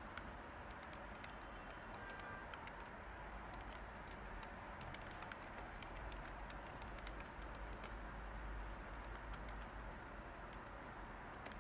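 Light computer keyboard typing: scattered, irregular key clicks over a steady background hiss.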